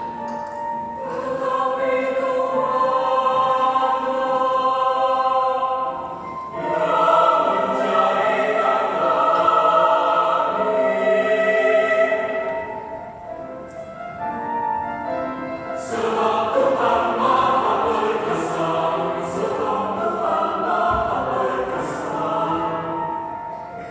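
Youth church choir singing a sacred song in several voices, in long held phrases that ease off briefly about six seconds in and again around fourteen seconds.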